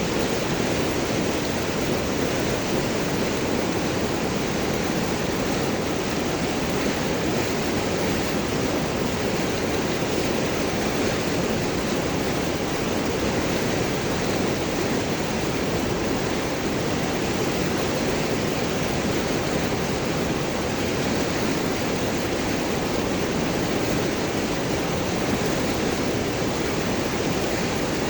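River water rushing and gurgling over large rocks: a steady, full rushing noise without breaks.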